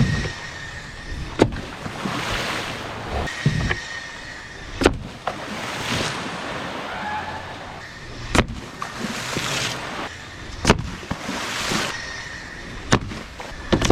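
Surges of splashing water and wind noise, with a sharp knock about every two to three seconds.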